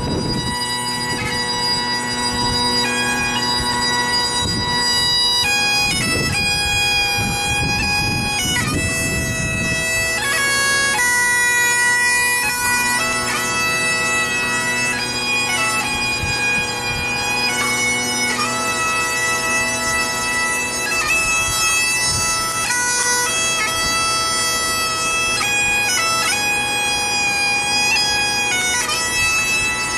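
Bagpipe playing a slow tune: held melody notes change over the steady drones.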